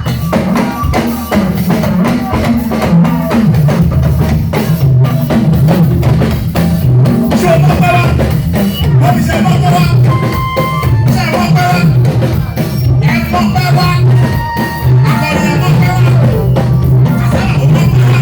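Loud live praise band music, with a drum kit keeping a steady beat over a heavy bass line.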